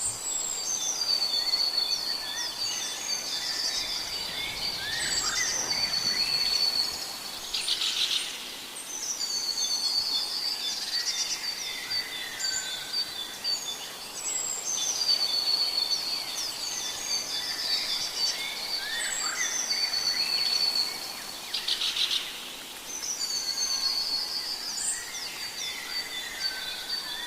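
Forest birds singing: one bird repeats a long, high, chattering phrase every several seconds, with shorter lower calls from other birds between its phrases.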